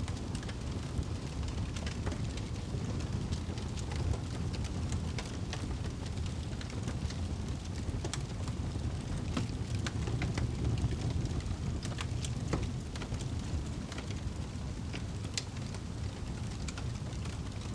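Wood fire burning in a fireplace: a steady low rumble of flames with frequent sharp crackles and pops of burning wood scattered throughout.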